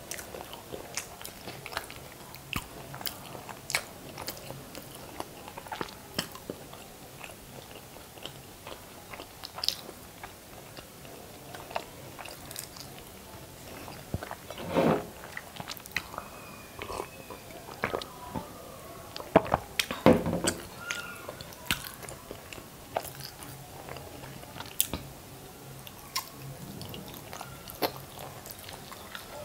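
Close-miked chewing and biting of masala-coated hard-boiled eggs: frequent short mouth clicks and smacks, with louder moments about 15 and 20 seconds in.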